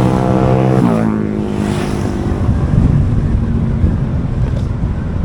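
Motorbike engine running under way, its note holding steady and then dropping in pitch about a second in as the revs fall, over wind and road noise.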